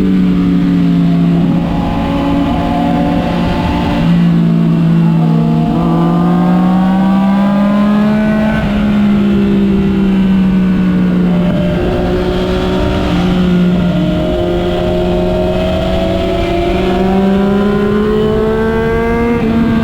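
Motorcycle engine heard on board while riding. Its pitch climbs under acceleration and drops at each gear change, several times over, with a low rush of wind and road noise underneath.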